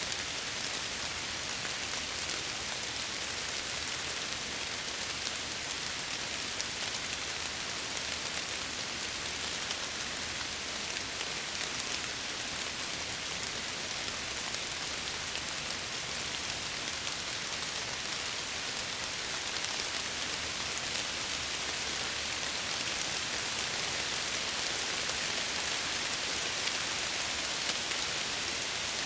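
Steady rain falling against window glass: an even hiss of dense drops that swells slightly near the end.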